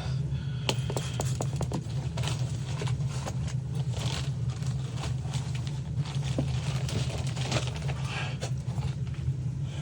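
Irregular scraping and clicking from hand work on a gas water heater's burner parts, over a steady low hum.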